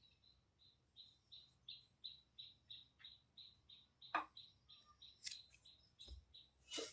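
Faint, steady series of short high bird chirps, about three a second, with a few sharp ticks in between.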